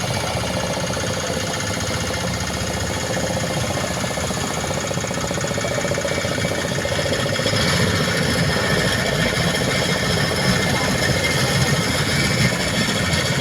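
Motorboat engine running steadily, a continuous mechanical drone that gets a little louder about eight seconds in.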